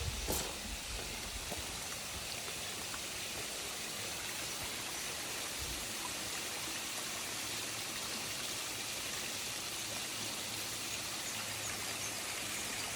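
Steady rushing of running water, like a stream or small waterfall, with a brief click just after the start.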